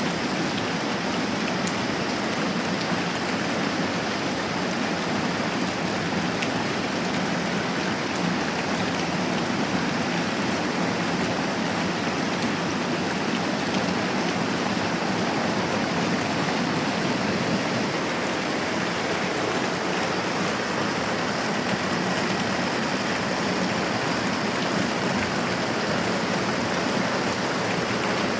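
Moderate rain falling steadily, an even hiss with no breaks.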